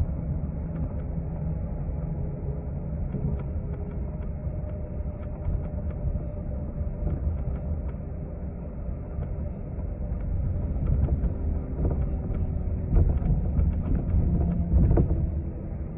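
City bus running in traffic, heard from inside the passenger cabin: a steady low drivetrain rumble with faint whining tones and small rattles. It grows louder from about ten seconds in.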